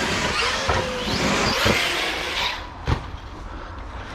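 Electric RC monster truck accelerating hard, its motor whine gliding up and down over the rush of tyres on rough ground, then a single sharp thump about three seconds in, after which it goes quieter.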